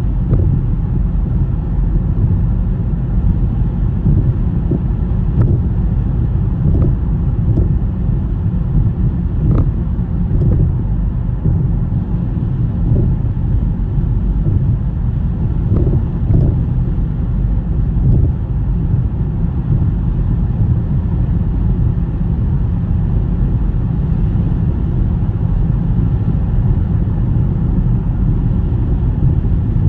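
A car driving on a snowy road: a steady low rumble of tyres and engine, with a few faint ticks scattered through it.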